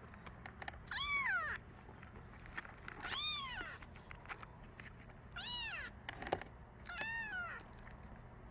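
Kitten meowing four times, each call high and short, rising and then falling in pitch.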